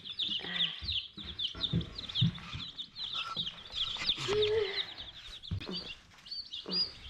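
A flock of young chicks peeping, with many short, high cheeps overlapping continuously. A few low knocks sound underneath.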